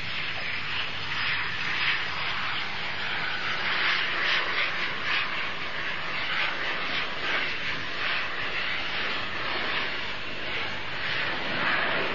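Me 262 jet fighter in flight: its jet engines make a steady rushing roar that swells and eases slightly.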